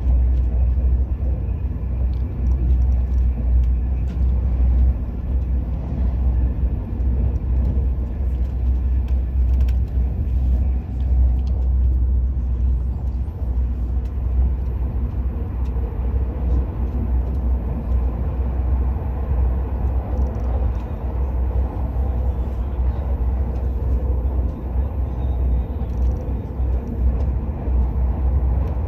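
Steady low rumble of the Al Boraq high-speed train running at speed, heard from inside the carriage.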